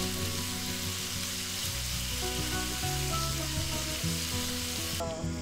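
Chopped meat sizzling as it fries in a pan over a portable gas burner, turned now and then with metal tongs. The sizzle cuts off suddenly near the end.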